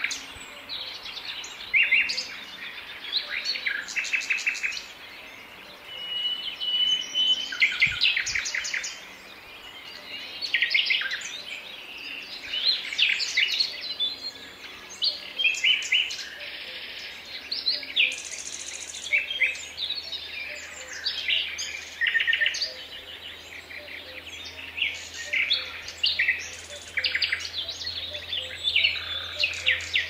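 Several songbirds singing in a dense forest chorus of varied phrases: trills, rapid runs of repeated notes and short whistles, overlapping with no pause.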